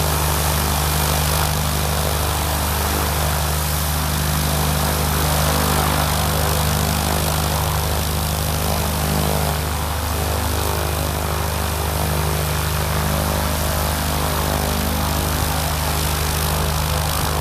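Van's RV-10's piston engine and propeller running steadily at low power, a constant low hum with an even rush of noise above it.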